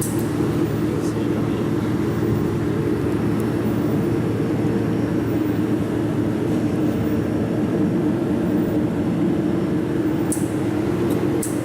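Steady low hum of a running machine, with a short sharp click just after the start and two more near the end.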